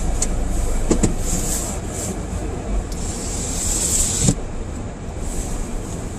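A car driving through deep fresh snow: a steady low rumble from the engine and tyres, with stretches of hiss as snow is churned up. Two knocks sound, one about a second in and a louder one just past four seconds.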